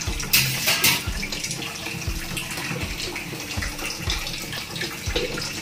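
Sliced mushrooms sizzling in melted butter in a hot frying pan, with a brief louder burst of sizzle about half a second in.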